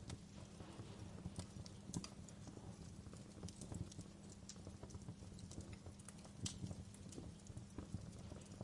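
Wood fire in a fireplace crackling: irregular sharp pops and snaps over a steady low background, the loudest pops about two seconds in and again about six and a half seconds in.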